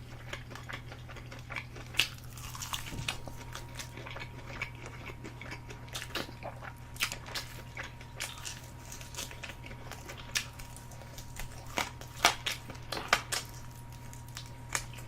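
Close-miked ASMR eating: irregular crisp crunches and chewing as someone bites through chicken, bones included, over a steady low hum.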